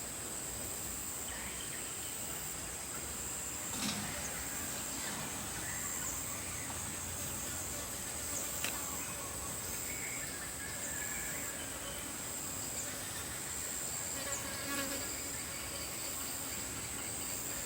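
A steady, high-pitched insect chorus trilling without a break, with a couple of light knocks about four and nine seconds in.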